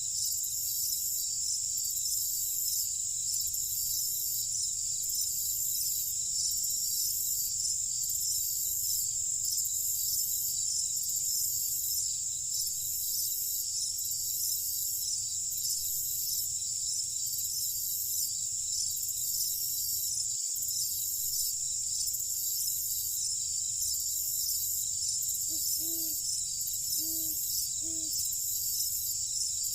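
Night chorus of crickets chirping in a steady, high-pitched, pulsing trill, over a low steady rumble. Near the end, a few short low calls sound in two quick pairs.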